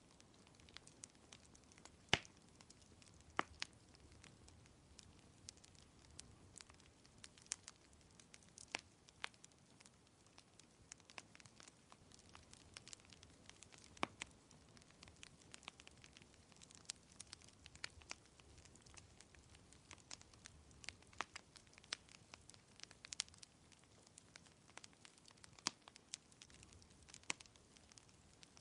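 Wood fire crackling softly, with irregular sharp pops and snaps, the loudest about two seconds in and again near the middle, over a faint steady hiss.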